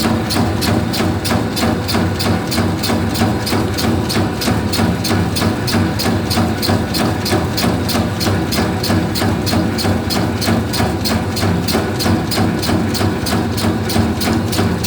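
Meatball-forming machine running, with a fast, even clicking of its mechanism at about four clicks a second over a steady motor hum.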